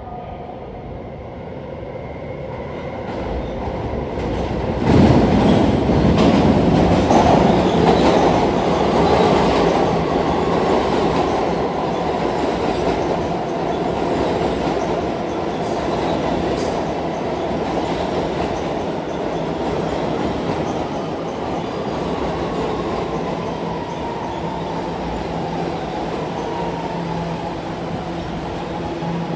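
New York City Subway A train coming into the underground station: a rumble that builds and turns loud about five seconds in, with wheels clattering over the rail joints, then a long motor whine that slowly falls in pitch as the train slows.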